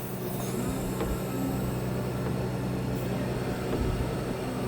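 Bucket truck's engine running steadily, powering the boom hydraulics as the bucket is moved into a new position.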